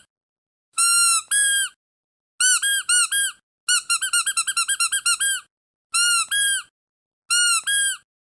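Squeaky dog toy squeezed in quick pairs and triplets of high, arched squeaks, with a fast run of about a dozen short squeaks in the middle and full silence between the groups.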